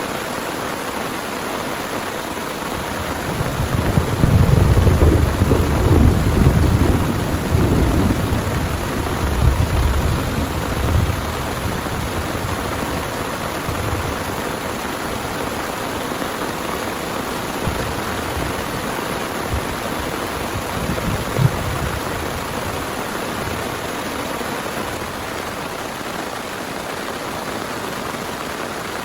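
Steady heavy rain with thunder: a long rumble of thunder builds about three seconds in, is loudest a few seconds later and dies away by about twelve seconds, and a shorter rumble follows near twenty seconds.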